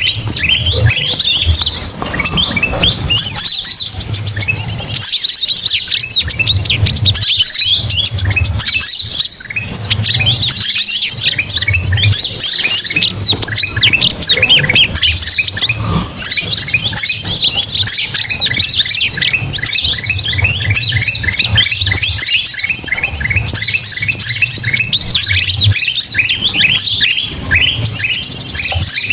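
A dense, loud chorus of many small birds chirping and calling over one another without a break, a noisy mixed-bird lure recording that includes kutilang mas bulbul calls. A low rumble comes and goes underneath.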